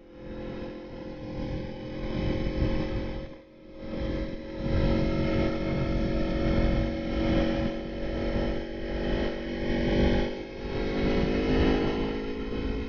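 Aprilia Tuono motorcycle engine running under way, recorded on the bike, with a steady engine note and road and wind noise. The sound drops off briefly at the start and again about three and a half seconds in, then picks back up.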